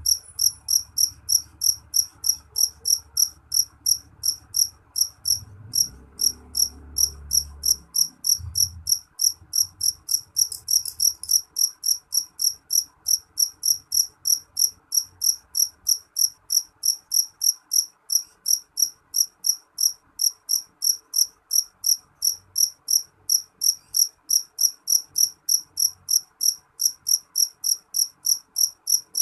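Jeliteng cricket, a black field cricket, chirping shrilly in a steady train of short chirps, about three a second. For roughly the first third a faint low rumble sits under the chirps.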